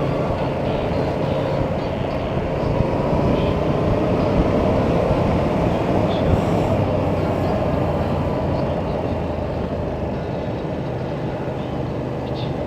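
Motorcycle riding along, its engine running under a steady heavy rush of noise, with the engine note rising slightly in the middle.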